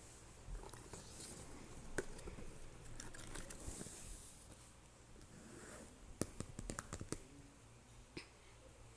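Faint handling noises: rustling and crinkling, with a sharp click about two seconds in and a quick run of clicks about six to seven seconds in.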